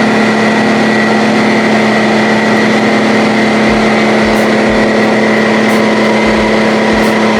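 DeWalt 6-gallon air compressor running steadily with a loud, even motor hum, with a few short low thumps in the second half.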